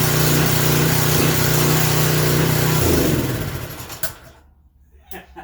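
Craftsman pressure washer's small gasoline engine running loud, then shut off about three seconds in and winding down to a stop, followed by a couple of sharp clicks. The engine is surging and smoking because the crankcase is overfilled with oil, which the owner says is burning oil out the muffler.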